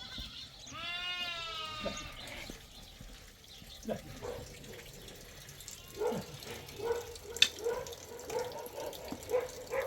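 A goat bleats once near the start, a quavering call about a second long. Softer irregular clicks and pulses follow in the second half.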